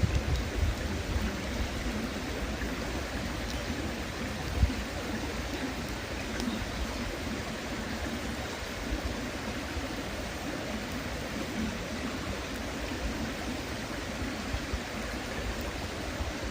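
A river babbling steadily, with a few faint pops from a wood campfire and one short low thump about four and a half seconds in.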